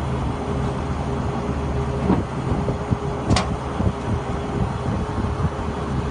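Truck-mounted rotary-table water well drilling rig running, its engine droning steadily, with a faint knock about two seconds in and a sharper knock a little past three seconds.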